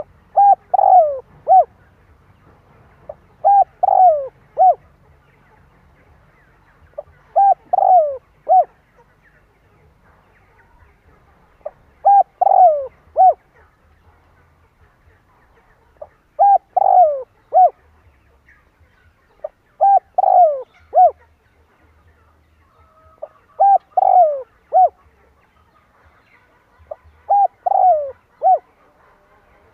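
Spotted dove cooing: eight short phrases of three or four low coos, one about every four seconds, each with a longer, falling middle note. It is a decoy bird's call, used to provoke wild doves into answering.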